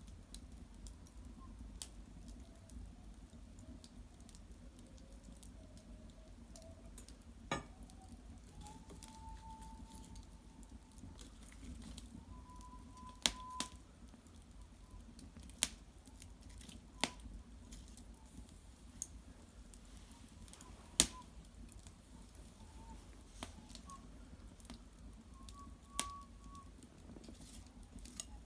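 Wood fire of cedar branches and bark burning in an irori hearth, crackling with sharp single pops every second or few seconds over a low, steady background.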